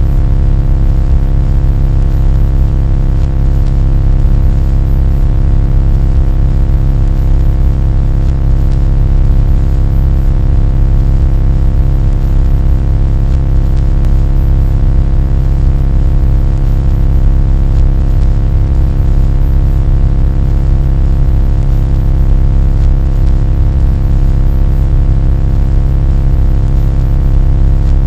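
Loud, steady low drone with many overtones above it, unchanging throughout.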